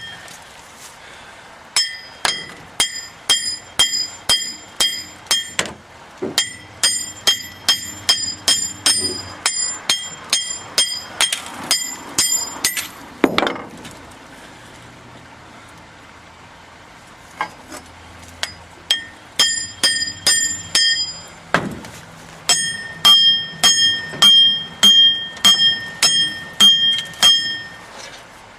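Hammer beating on a stuck steel part of a truck's front axle assembly to knock it loose, metal-on-metal blows that ring after each strike. The blows come about two a second in a long run, stop for a few seconds around the middle, then resume until the end.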